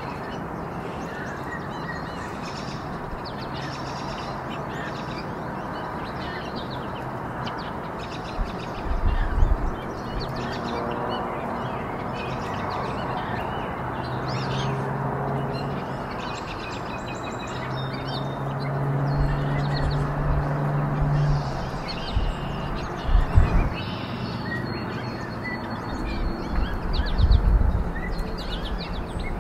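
Small birds chirping in short scattered calls over a steady rushing hiss, with a few low steady tones near the middle and some dull thumps toward the end.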